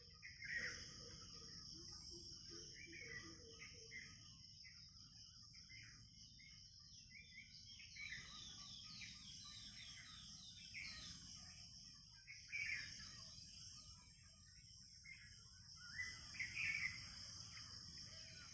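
Faint outdoor birdsong: several birds chirping and calling in short scattered notes over a steady high-pitched insect drone, with a few louder calls about half a second in and near the end.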